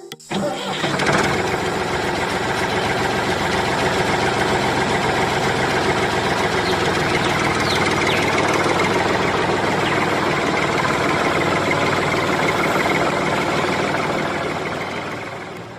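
A small engine running steadily. It starts abruptly and fades away near the end.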